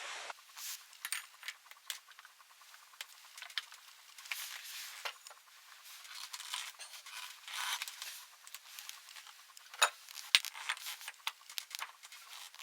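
Irregular clicking, clinking and scraping of tools and small hard parts being handled, with a couple of sharper knocks about ten seconds in.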